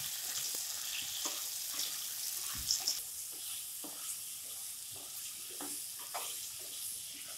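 Chopped green capsicum sizzling as it fries in hot oil in a nonstick kadhai, with a spatula stirring it and knocking against the pan every so often.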